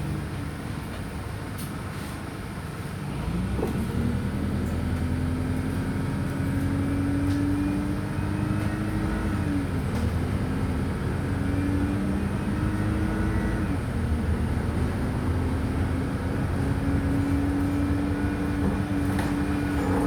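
Wright Streetlite DF single-deck bus heard from inside the saloon, its diesel engine pulling away after running low for a few seconds. The engine note rises and drops back twice as the automatic gearbox changes up, then settles at a steadier cruise.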